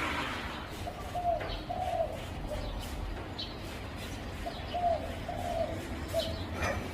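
Zebra dove cooing: two runs of short, quick coo notes, the first about a second in and the second near the middle, with faint high chirps from small birds.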